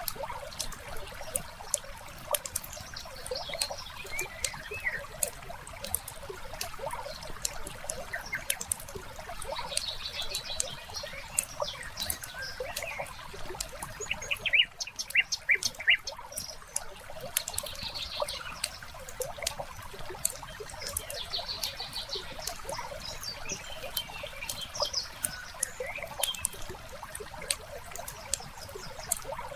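Wood fire crackling with many small sharp pops, over a soft steady hiss, with birds chirping and trilling now and then, including a quick run of short calls about halfway through.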